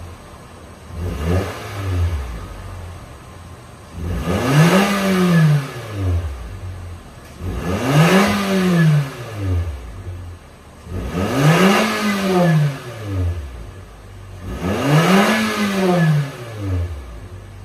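2022 Nissan Sentra's 1.6-litre naturally aspirated four-cylinder heard through an aftermarket single-canister rear muffler with left and right outlets, revved from idle. A couple of short blips come first, then four long revs, each climbing and falling back to idle.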